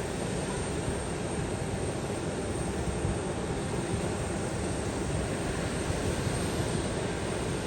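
Steady aircraft engine noise, an even rushing sound with its weight in the low range.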